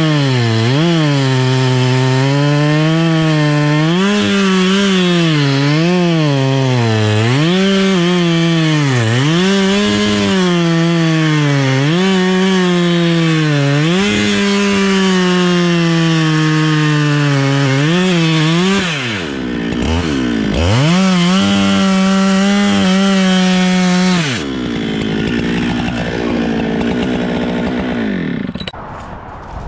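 Gas chainsaw running at high throttle while cutting wood, its pitch dipping and recovering about once a second as the chain bites. After about 24 seconds it drops back to a lower, steady run, then fades out near the end.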